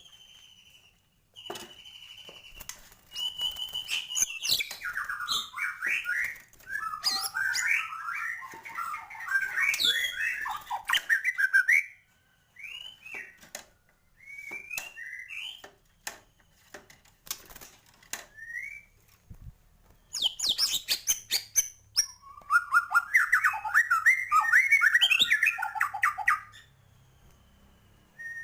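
White-rumped shama singing a loud, varied song of rapid whistled and chattering phrases, packed with mimicked fills. It comes in bursts with short pauses between them, and the fullest runs are a few seconds in and again near the end.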